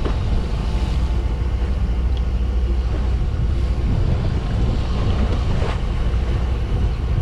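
Steady low rumble of a fishing boat's engine, with wind blowing on the microphone.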